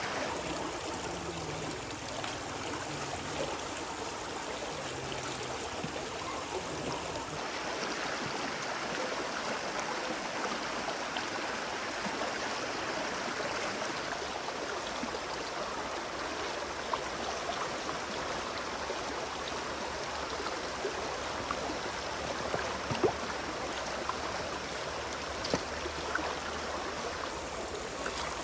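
Stream water flowing steadily over rocks, with a few short sharp knocks, the loudest about two-thirds of the way through.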